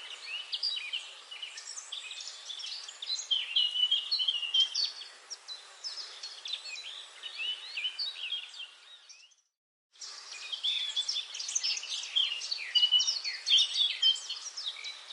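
Dense forest bird chorus: many small birds chirping and trilling at once over a faint steady hiss. About nine seconds in it fades out, goes silent for under a second, then comes back abruptly.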